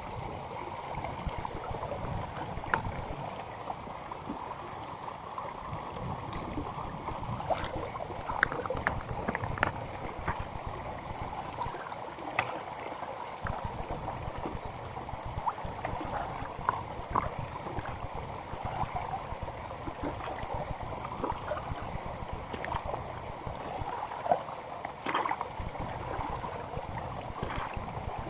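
Mountain stream gurgling and trickling, a steady water noise broken by many small irregular splashes.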